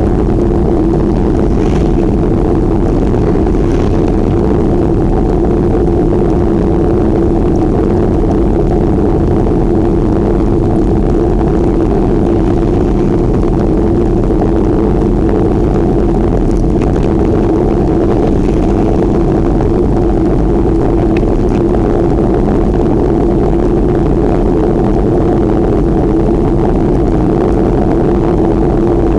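Steady, loud rush of wind on the microphone while riding a bicycle, heaviest in the low range and unbroken.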